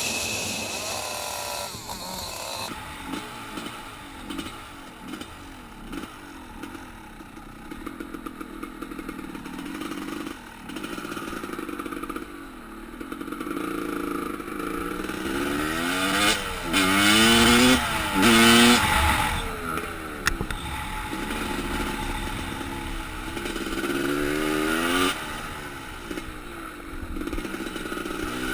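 Motorcycle engine running with a steady drone, revving up in pitch several times in quick succession around the middle and again near the end.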